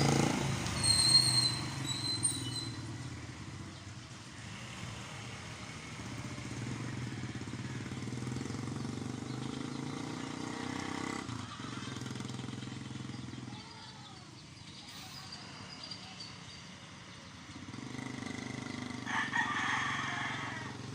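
Motorcycle engine running, its level rising and falling as the bike moves about, dropping away past the middle and coming back near the end. A high bird call sounds briefly about a second in.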